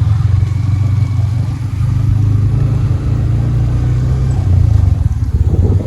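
Motorcycle engine running steadily under way, a loud, low drone.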